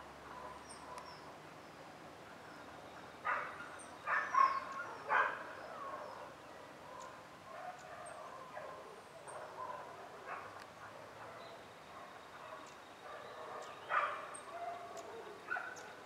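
Small birds chirping, with thin, high, scattered notes, over faint steady outdoor background noise. A few louder short calls come in a cluster about three to five seconds in and again near the end.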